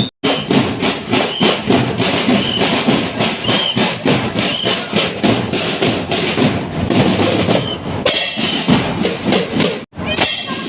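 School marching drum band playing: dense, steady drum strokes with short high notes recurring about once a second. The sound cuts out briefly right at the start and again near the end.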